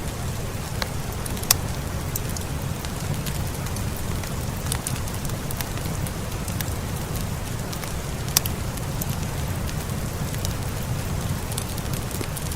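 Steady rain with a low rumble, mixed with a crackling fireplace: many small crackles and two louder pops, one about a second and a half in and one about two-thirds of the way through.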